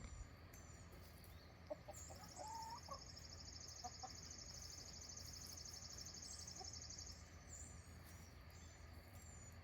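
Faint outdoor quiet with hens giving a few soft clucks early on, under a high, evenly pulsed insect trill lasting about five seconds and short high chirps repeating throughout.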